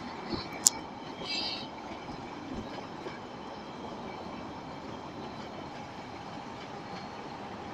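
Passenger carriages rolling slowly past as the train is pushed back, a steady rumble of wheels on rails. There is a sharp click under a second in and a short high screech just after.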